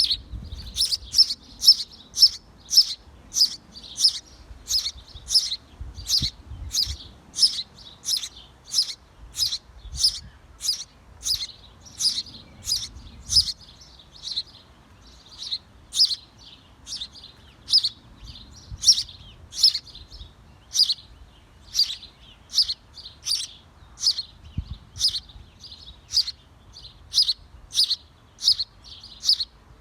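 Small bird chirping over and over, short high chirps at about two a second in a steady series.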